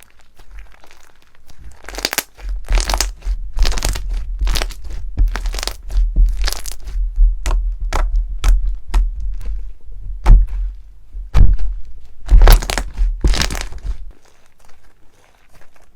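Slime being pressed and squeezed by hand, giving a long run of crisp crackles and pops over soft thuds. It starts about two seconds in and dies down near the end.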